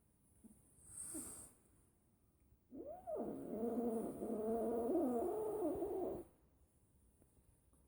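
A cat yowling: one long, wavering, drawn-out call of about three and a half seconds that opens with a quick rising slide, after a short faint sound about a second in.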